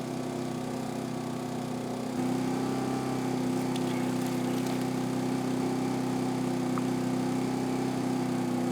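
Portable generator engine running at a steady speed, a constant hum that gets louder about two seconds in.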